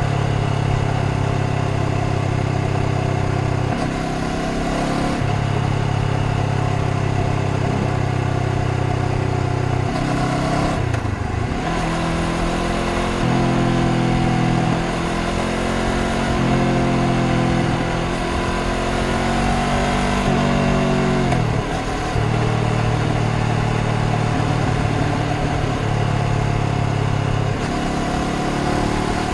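Honda CBR500R's parallel-twin engine running on the move, its note holding steady for stretches and changing pitch in steps several times, with two sharp dips about a third and two-thirds of the way through as the revs drop and pick up again.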